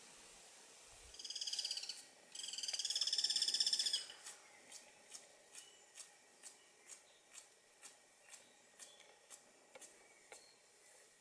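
A bird calling: two loud, rapid rattling trills, then a run of short single notes about two a second that grow fainter.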